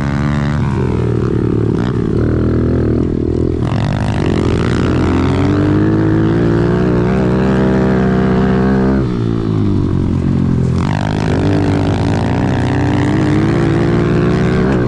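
Off-road vehicle engine running hard under throttle, its pitch climbing and then dropping several times as the rider works the throttle and gears.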